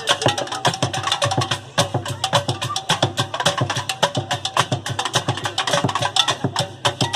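Percussion group playing a fast, dense rhythm on instruments made from recycled materials, with many sharp strikes a second and no break.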